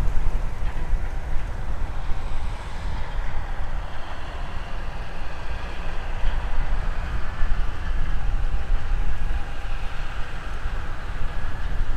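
Heavy diesel farm machinery running steadily with a continuous low rumble.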